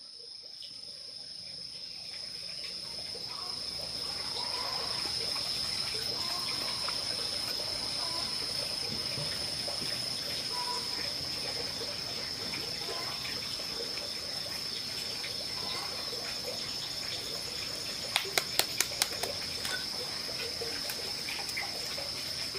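Steady running water with a continuous high-pitched insect drone over it. Near the end comes a quick run of about five sharp clicks.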